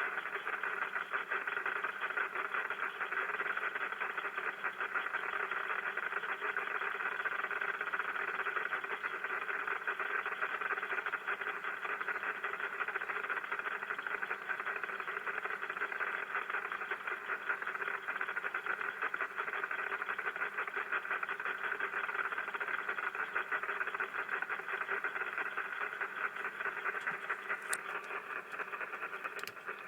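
HF receiver's speaker audio of rain static (QRN) on a Yagi antenna: a dense, fast, steady crackling hiss of tiny spikes. The operator takes these spikes for small discharges on or near the antenna.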